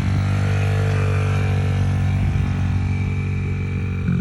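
Small kid's dirt bike engine running close by at a steady pitch, stepping up in pitch about four seconds in.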